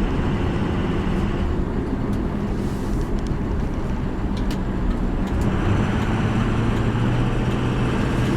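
2003 Ford F350 Super Duty's 6.0-litre Powerstroke turbo diesel V8 running, heard from inside the cab as a steady low drone under a wash of noise. The drone grows stronger about five and a half seconds in.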